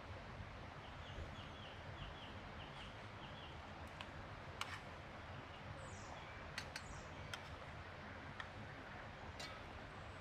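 A small bird calling a quick run of about eight short chirps over steady forest hiss, with a couple of higher falling chirps midway. A few sharp clicks and taps come scattered through the second half.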